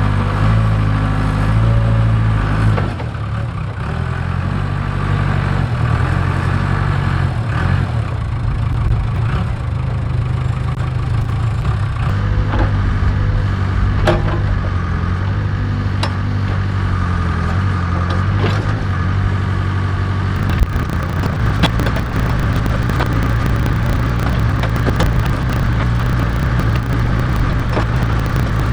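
Case 580K backhoe's diesel engine running steadily under working load, with a few sharp metallic knocks and clanks from the machine partway through.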